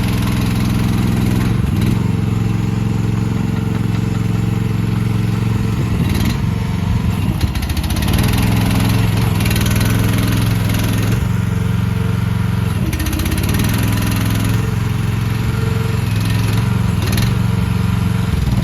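AGT MH12R mini excavator's engine running under working load, its pitch sagging and recovering now and then as the hydraulics are worked, with a few short knocks.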